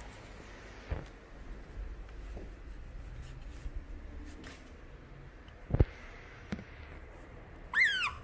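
Faint rustling and light knocks of small animals moving about, a sharp thump about six seconds in, then near the end one short high-pitched chirp that dips and rises in pitch, from an Asian small-clawed otter.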